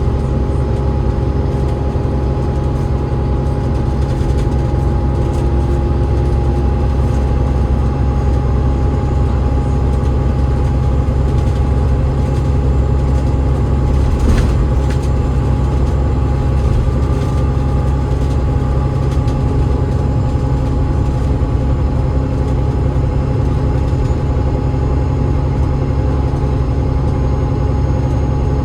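A Cummins ISL8.9 inline-six diesel bus engine, driving through a ZF EcoLife automatic gearbox, running with a steady low drone and a steady high whine. There is a single sharp click about halfway through.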